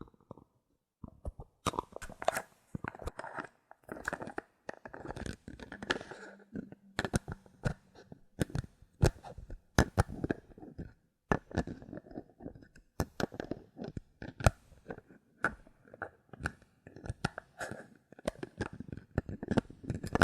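Bottle caps handled close to the microphone for ASMR: a dense, irregular run of sharp clicks, taps and crunchy scratching that begins about a second in.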